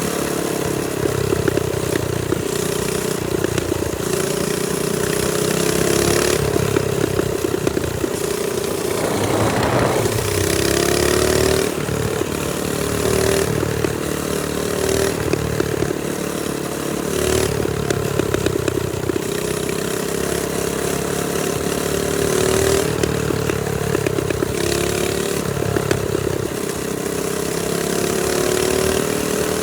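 TrailMaster Storm 200 minibike's small single-cylinder four-stroke engine running under way, its pitch rising and falling repeatedly as the throttle is opened and eased off, over a steady hiss.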